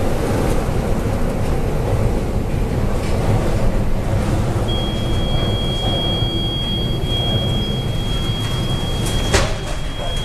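Steady low rumbling noise, joined about halfway by a continuous high-pitched electronic beep that holds, with a sharp click near the end.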